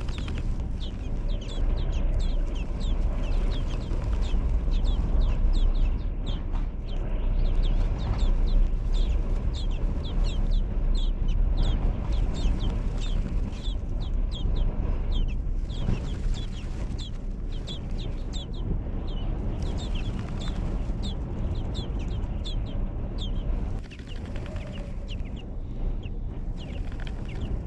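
Birds chirping rapidly and continuously, many short high chirps a second, over a steady low rumble.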